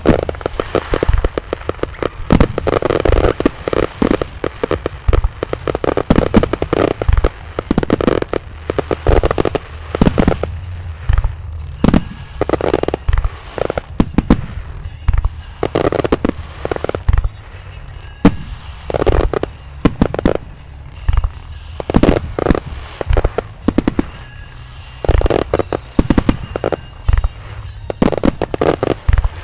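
Starmine fireworks barrage: aerial shells bursting in rapid succession, dozens of loud sharp bangs in clusters with crackling between them.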